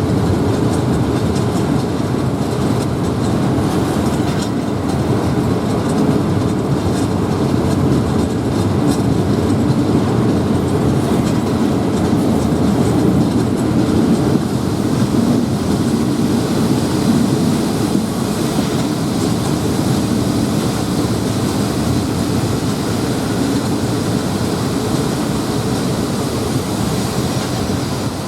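State Railway of Thailand passenger train 282 running along the track, heard from on board: a steady, loud rumble of the coaches and wheels on the rails.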